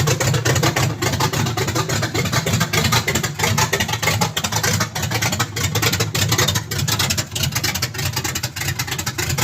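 Chevrolet S-10 pickup's engine idling steadily with a choppy, pulsing exhaust note, its individual firing pulses distinct, running on all cylinders.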